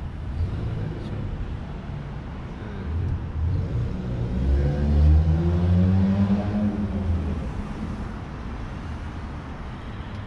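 A motor vehicle driving past: its engine sound swells to a peak about halfway through and fades, over a low steady rumble of traffic.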